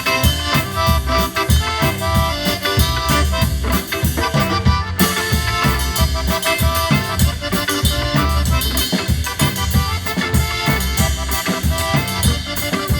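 Live cumbia band playing an instrumental break: accordion over a drum kit keeping a steady dance beat.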